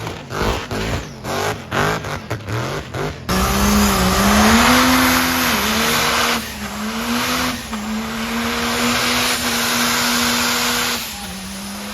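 Truck engine revved in quick repeated blips, then about three seconds in held at high revs under a loud rush of tire noise, as in a burnout. The engine note wavers slightly while held and the noise eases off near the end.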